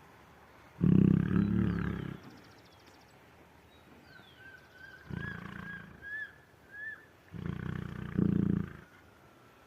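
Lioness giving a series of low calls: one about a second in, a few short ones around the middle, and a longer, louder one near the end.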